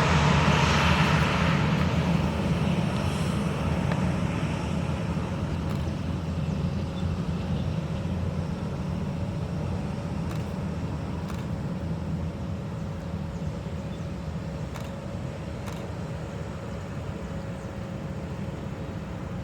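Boeing 737 airliner's jet engines during its landing, a steady rumble with a thin high whine, fading evenly as the aircraft moves away.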